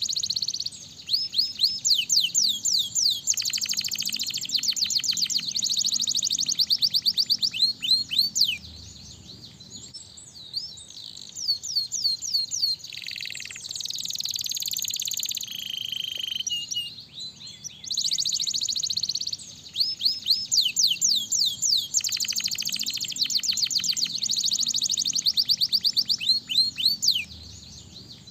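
Domestic canary singing: long phrases of very fast trills and rising and falling whistled notes, with short lulls between phrases.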